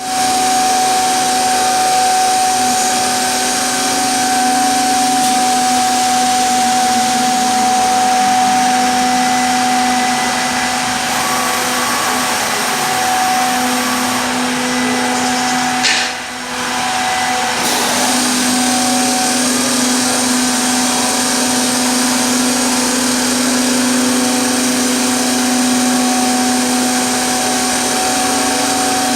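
A 10-head CNC woodworking mortising machine running: a steady hum with a higher whine over a constant rush of noise. About sixteen seconds in there is a short click and the sound briefly drops before picking up again.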